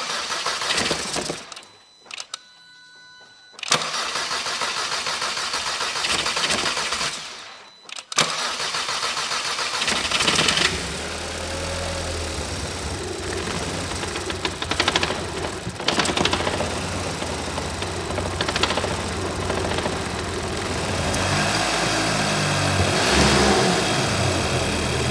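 VW Scirocco R's 2.0-litre turbocharged four-cylinder TFSI engine being started for the first time after a timing chain rebuild: the starter cranks briefly, cranks again for about four seconds, and about eight seconds in the engine catches, flares and settles into a steady idle. It runs with only a light, normal tick, the timing chain rattle gone.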